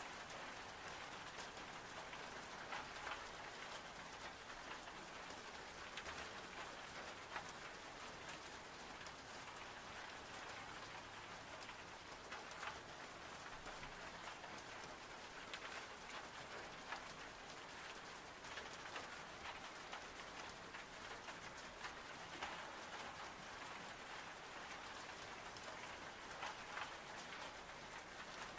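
Steady rain ambience, an even hiss with scattered sharp ticks throughout.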